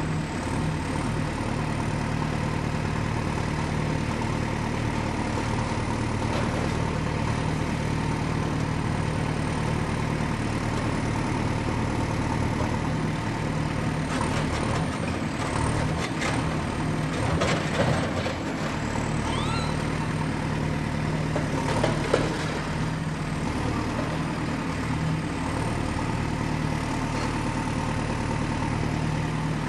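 Excavator diesel engine running steadily at work, with a few metallic clanks and squeaks around the middle and one sharp knock about two-thirds of the way through.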